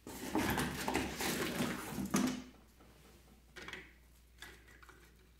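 Pieces of firewood being laid into a wood stove's firebox, scraping and knocking against each other and the firebox for about two and a half seconds, then a few faint separate knocks.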